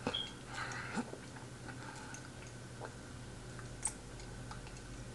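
A man chewing food quietly, with a few faint, scattered mouth clicks.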